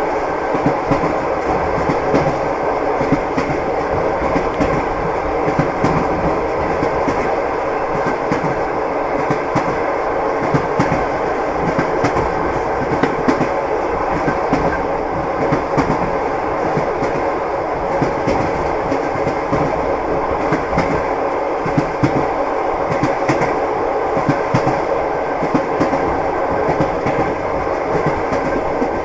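Train running steadily, its wheels knocking over the rail joints in a continuous clickety-clack over a steady rumble.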